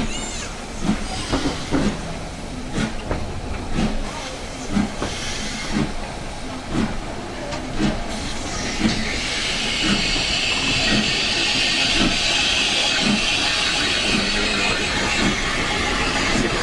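LMS Black Five 44932 steam locomotive and its train, heard from on board, with a regular beat about once a second. About halfway through a loud steady hiss of steam starts and carries on.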